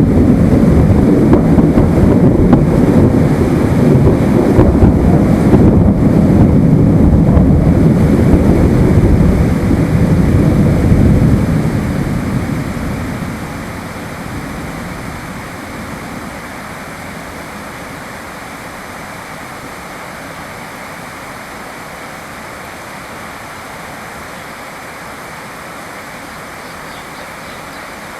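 A long roll of thunder over steady rain: it starts suddenly, rumbles for about twelve seconds and dies away, leaving only the even hiss of rain.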